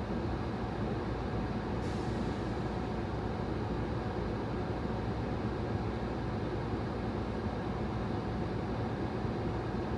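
Steady low rumble and hum inside a stopped car's cabin, the engine idling. A faint hiss swells about two seconds in and fades.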